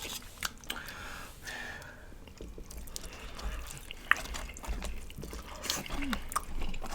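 Close-up wet eating sounds of barbecue ribs being chewed, with many small, irregular lip-smacking clicks.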